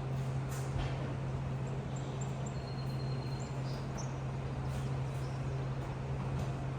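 Dodge Challenger SXT's V6 idling with its mufflers deleted, a steady low drone, while birds chirp faintly a few times in the first half.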